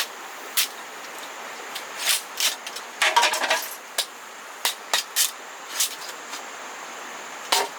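Irregular sharp knocks of bamboo being cut and worked by hand with a knife, with a quick run of rattling strokes about three seconds in.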